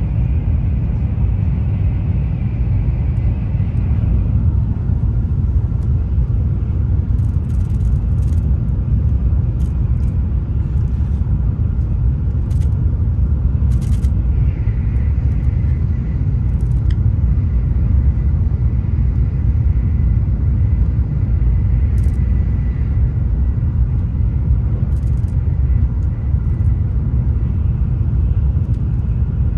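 Steady rumble of a Shinkansen bullet train running, heard inside the passenger cabin. A faint high whine joins about halfway through, and a few faint clicks sound over it.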